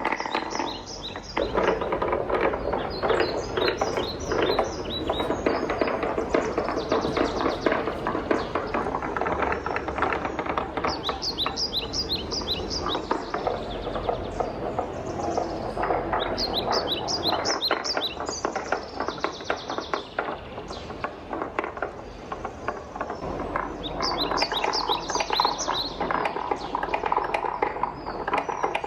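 Wooden balls rolling and clattering down a wooden marble run: a continuous rolling rumble under dense clicks and knocks. Every few seconds there is a quick run of bright, high, chirp-like ticks.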